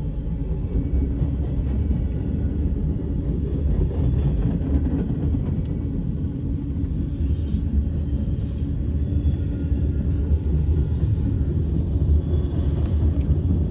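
Long freight train's cars rolling past: a steady low rumble with a few faint clicks.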